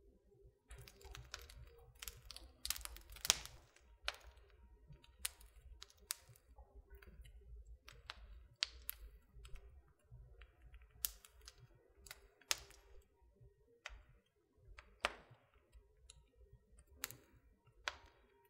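Wood fire burning in a fireplace, crackling with irregular sharp pops and snaps, some much louder than others, the biggest about three seconds in.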